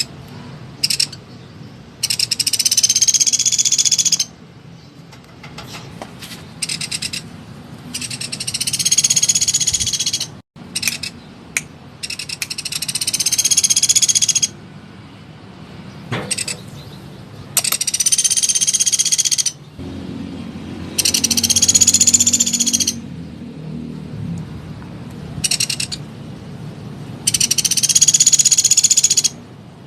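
Small woodpecker (pelatuk sampit) giving loud, very fast, tightly packed trills, each about two seconds long. Six of them come in a row, a few seconds apart, over a low steady background hum.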